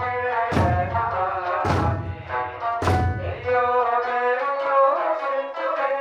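Okinawan Eisa music: a sustained sung melody over taiko drum strikes about once a second. The drums drop out about halfway through while the melody carries on.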